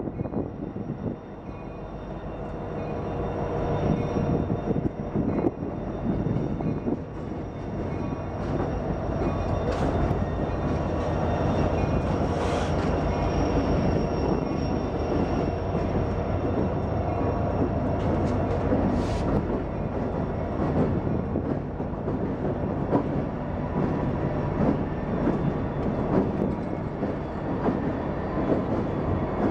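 A diesel-hauled freight train passing close by: locomotive engines drone and the wheels rumble on the rails. It grows louder over the first few seconds, then holds steady.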